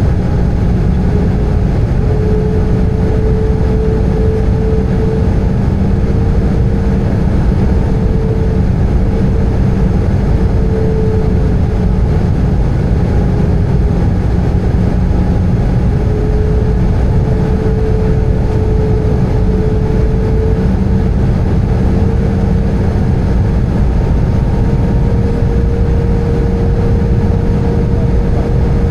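Airbus A320 passenger-cabin noise: a loud, steady rush of engines and airflow, with a steady hum that drifts slightly in pitch.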